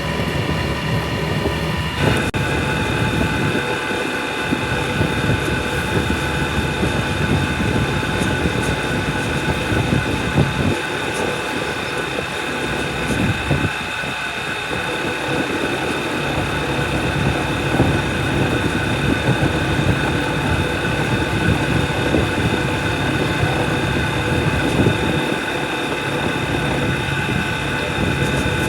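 Machinery running steadily: a dense rumble with a steady high whine over it. The sound changes abruptly about two seconds in.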